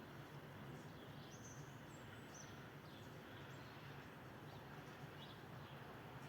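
Faint, short, high bird chirps scattered over a steady low background hum.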